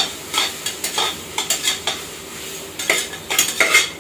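A spoon stirring and scraping in a pot, with oil sizzling, as ginger-garlic paste is sautéed with onions until its raw smell cooks off. The strokes come irregularly, the loudest near the end.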